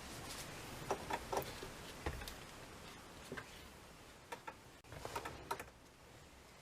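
Scattered small clicks and taps in loose clusters, with the densest group a little after five seconds, over a faint background hiss.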